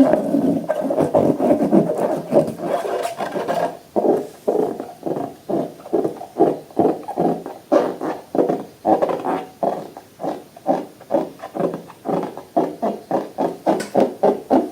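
Slime being mixed in rhythmic squishing strokes, a dense wash at first and then evenly spaced, about two to three strokes a second from about four seconds in.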